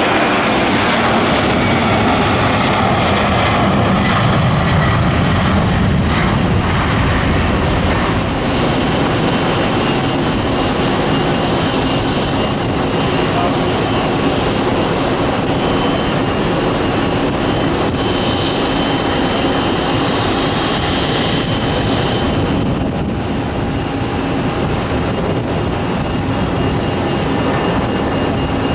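Jet airliner engines running, a loud steady rumble with a high whine held through it.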